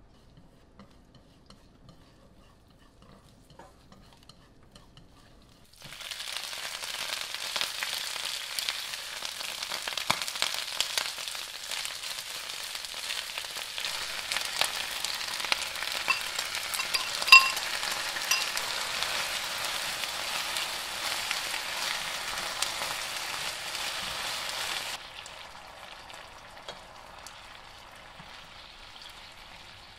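Garlic cloves frying faintly in oil in a frying pan. About six seconds in, a loud, spattering sizzle starts as wet yu choy goes into the hot oil, full of sharp crackles, with one ringing metallic clink near the middle. A few seconds before the end the sizzle drops to a softer, steadier frying sound.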